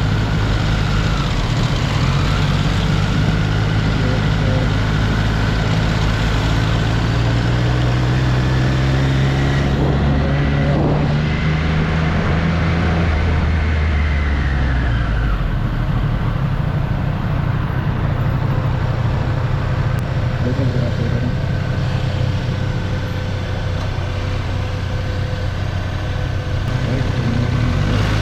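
2024 Triumph Street Triple's inline three-cylinder engine running under way, with a steady engine note for the first half that then falls back under road and wind noise.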